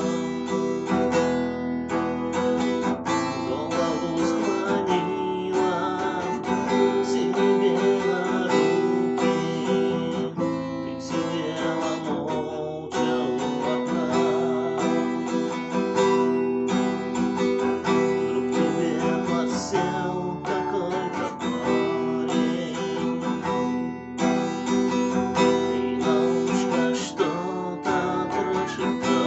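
Acoustic guitar music: chords strummed continuously.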